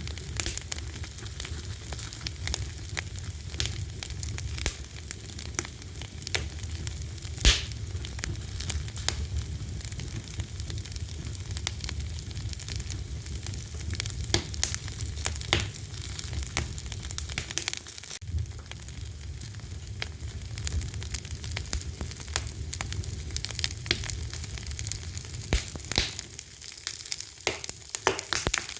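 Fire crackling and popping steadily, with one loud pop a few seconds in, over a low rumble that drops away near the end.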